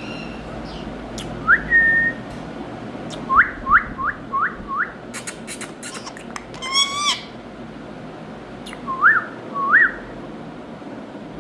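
Indian ringneck parrot whistling in short rising notes: one ending in a held note, then a quick run of five, a harsher call with clicks about halfway, and two more rising whistles near the end, over a steady background hiss.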